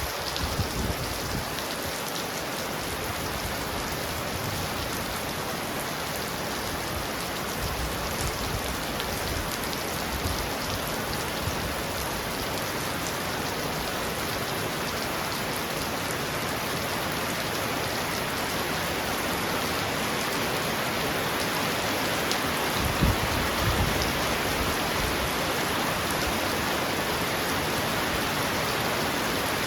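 Heavy rain pounding on a roof in a steady, dense hiss, with a brief low rumble a little over two-thirds of the way through.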